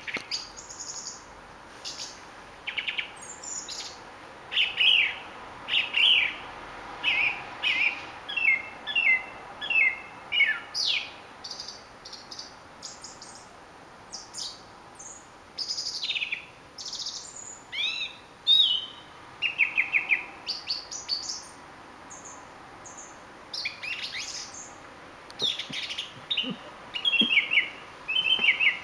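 A thrush singing at night: a run of varied short phrases, many repeated two or three times in quick succession, with brief pauses between them.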